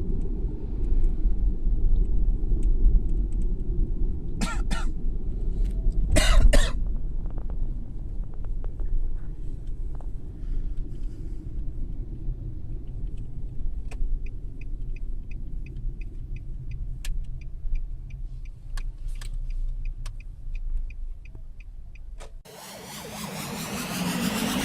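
Steady low rumble of a car on the move. Two short harsh bursts come about four and six seconds in, and a run of quick high beeps, about three a second, sounds for several seconds in the middle. Electronic music starts near the end.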